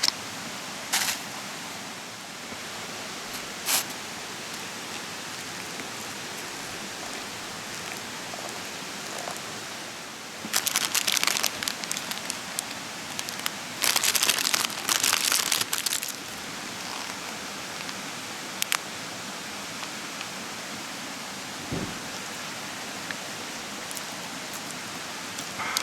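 Open wood campfire hissing steadily and crackling, with single sharp pops and two dense bursts of crackling near the middle.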